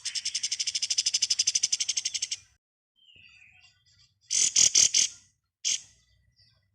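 Kapas tembak songbird giving a rapid, rattling 'ngebren' trill of about fifteen even pulses a second for two and a half seconds. About four seconds in it follows with a quick burst of three or four loud, sharp high notes, then a single short note.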